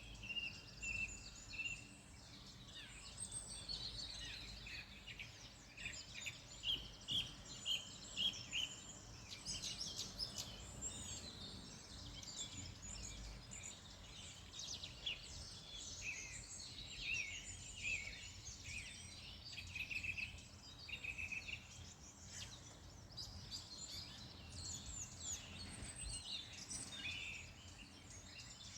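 Several wild songbirds singing and chirping at once, a dense overlapping chorus of short high calls and quick trills, over a faint low steady rumble.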